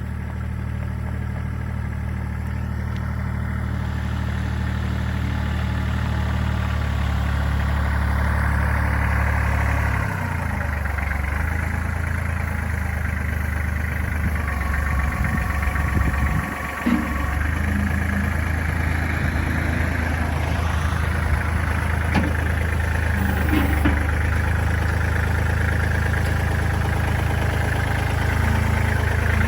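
Kubota tractor's diesel engine running steadily. Its note shifts about ten seconds in, and it dips briefly around seventeen seconds.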